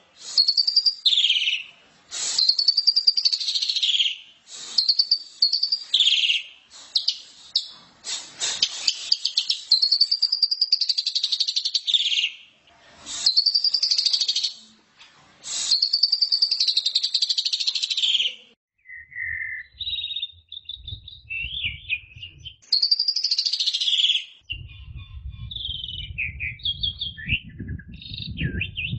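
Asian pied starling singing: loud, rich whistled phrases that rise and fall, delivered one after another. About two thirds in the long phrases give way to shorter, varied chirps over a low rumble.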